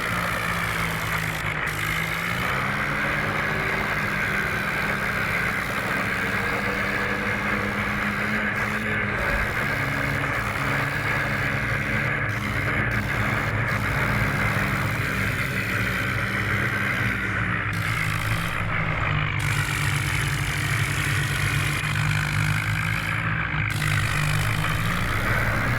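Vehicle engine running steadily throughout, its pitch stepping up about two seconds in and easing down around seventeen seconds.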